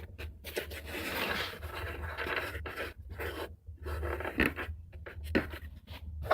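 Fine metal file rasping along a ski's steel side edge in a 88-degree file guide, in a series of strokes with short pauses between them.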